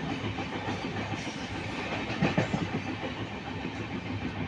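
Passenger train rumbling, heard from inside the coach, with a couple of short knocks about two seconds in.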